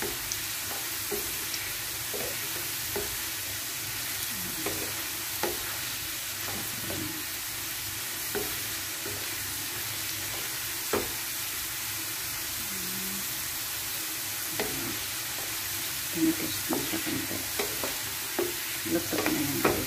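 Fresh-cut potato fries sizzling in hot oil in a nonstick frying pan, with a wooden spatula stirring them and knocking against the pan now and then, more often near the end.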